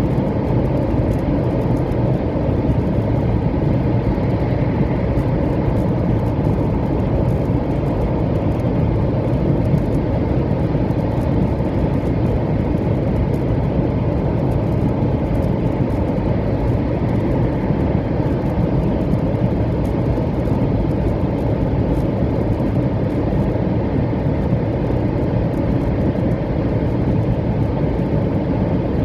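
700 series Shinkansen train running at speed, heard from inside the passenger cabin: a steady, loud low rumble of wheels, track and air.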